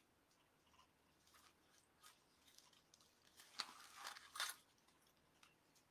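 Faint rustling and crinkling of ribbon being handled and stretched out to be measured, with two louder crinkles about three and a half and four and a half seconds in.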